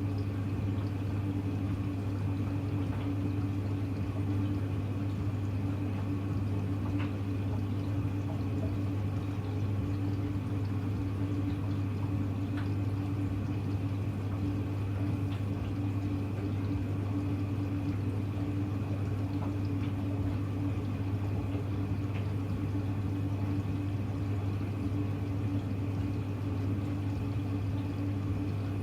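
Hoover Electra front-loading washing machine with water running through it and a steady electric hum.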